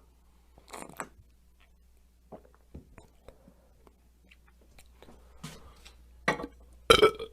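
Close mouth sounds of a person drinking: scattered small clicks and swallows, then two louder gulps near the end.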